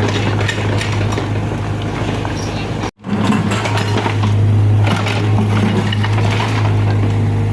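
Excavator's diesel engine running steadily with a deep hum, with a few light clinks over it. The sound drops out for a moment about three seconds in.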